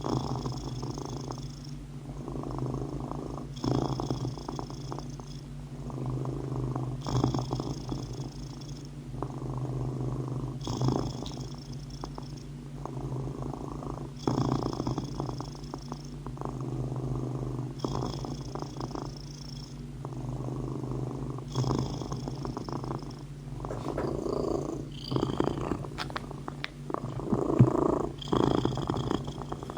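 Domestic cat purring steadily, the purr swelling and easing in slow cycles about every three and a half seconds as it breathes in and out. A few light clicks come near the end.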